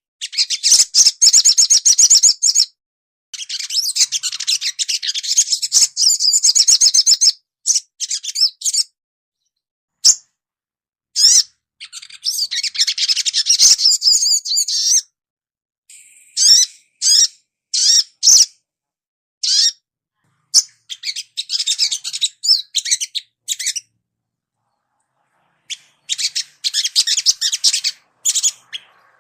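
Crimson sunbird (sogon) song: rapid, high-pitched twittering trills in bursts of one to three seconds, broken by short pauses and single sharp chips.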